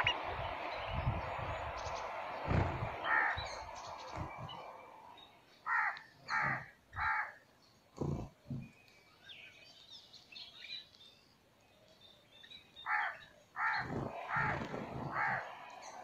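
Birds calling: a dense wash of chirping at first, then short loud calls in quick runs of three, about six seconds in and again near the end. Low thumps come in between.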